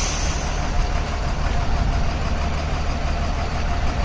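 Truck engine running with a steady low rumble and road noise, with a faint steady whine above it.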